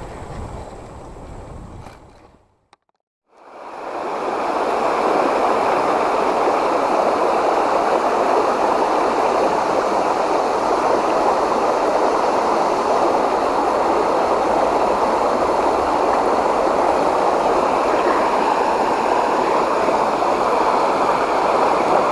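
Creek water flowing, a steady rushing noise that fades in about four seconds in, after a brief moment of near silence.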